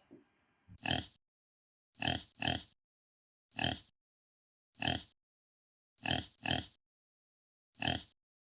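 Pig grunting: about eight short grunts, some in quick pairs, with silence between them.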